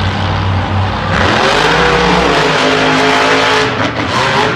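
Monster truck engines revving hard under full throttle. About a second in they surge louder, the pitch climbing over a couple of seconds, then easing off near the end.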